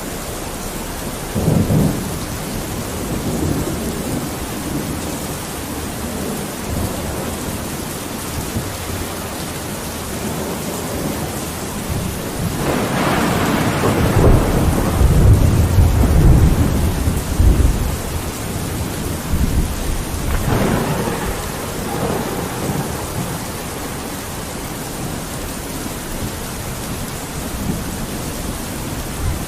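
Steady rain falling on a window, with rolling thunder. The loudest, deepest peal builds about halfway through and rumbles for several seconds, with shorter claps near the start and about two-thirds of the way in.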